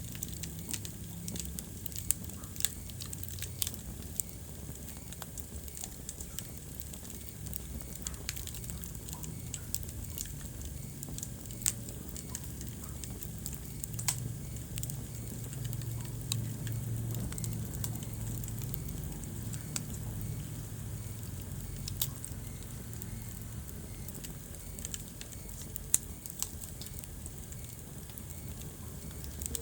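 Wood fire crackling in a fireplace, with irregular sharp pops scattered through it over a low steady rumble.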